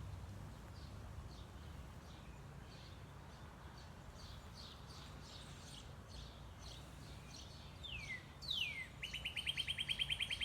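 Songbirds calling: scattered faint chirps, then one bird sings two quick down-slurred whistles followed by a fast, even trill near the end, over a steady low background rumble.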